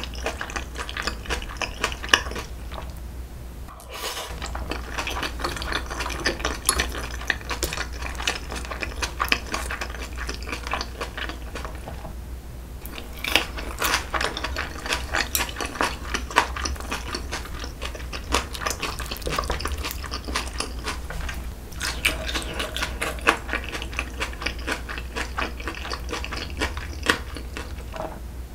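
Close-miked eating sounds: wet, irregular smacking and chewing of chewy braised pig's trotters (jokbal), with light clicks of metal chopsticks. There are two short lulls, about three and twelve seconds in.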